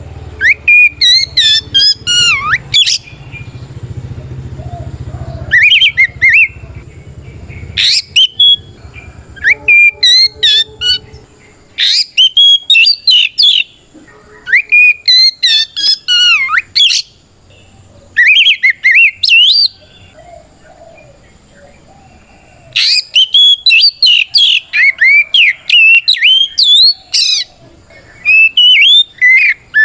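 Oriental magpie-robin (kacer) singing its loud 'ngeplong' challenge song: repeated bouts of rapid, sweeping whistled phrases, each a second or two long, with short pauses between. This is the full, open song a male uses to call out a rival.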